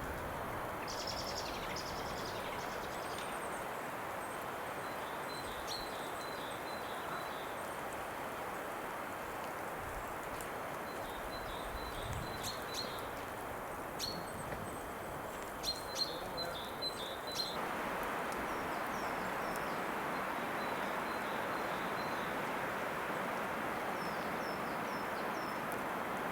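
Small birds chirping in short clusters of high notes over a steady rushing background noise; a few faint clicks come among the chirps midway.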